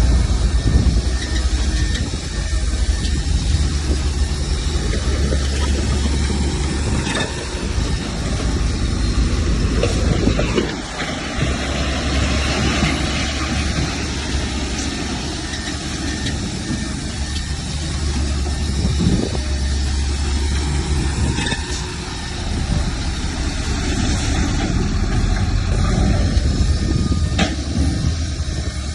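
Diesel engine of heavy earthmoving machinery running steadily, with small dips in level about eleven and twenty-two seconds in.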